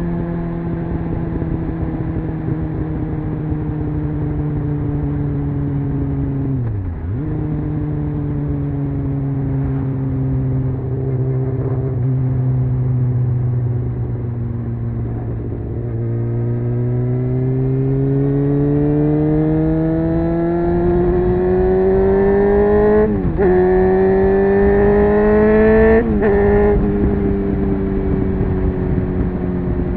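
Honda CBR600F's inline-four engine under way, its note easing down slowly at first with one brief dip, then climbing steadily as the bike accelerates. Near the end two quick gear changes break the note, the pitch dropping after the second.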